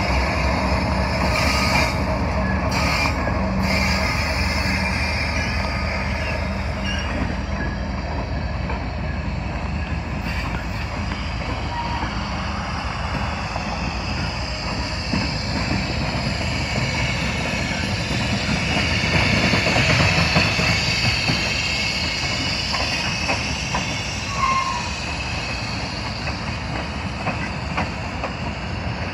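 Freight train passing: the steady drone of its diesel locomotives fades over the first several seconds into the continuous rumble and clatter of freight cars rolling by. A high wheel squeal swells and peaks about twenty seconds in.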